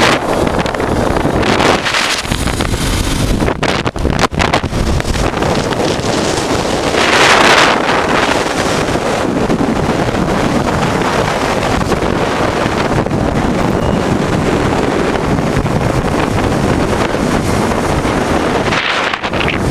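Wind rushing over the microphone of a 1988 Honda Transalp motorcycle riding at speed, a steady loud noise with a stronger gust about seven seconds in.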